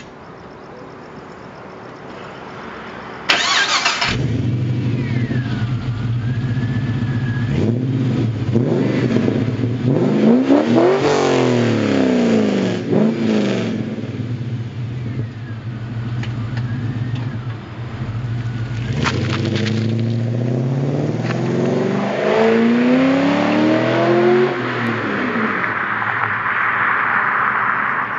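Holden VY Commodore SS 5.7 L V8 through a full aftermarket exhaust (4-into-1 Pacemaker extractors, twin high-flow cats, 2.5-inch stainless pipes) being started about three seconds in, then idling. It is blipped up in revs and back down twice.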